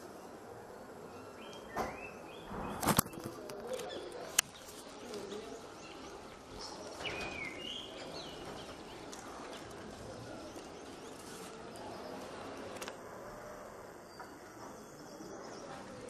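Outdoor hillside ambience with a steady background hiss and occasional short bird chirps. A few sharp clicks about three and four seconds in are the loudest sounds.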